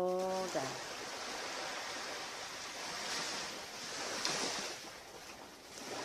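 Surf washing onto a beach, a steady rush of breaking waves that swells twice around the middle.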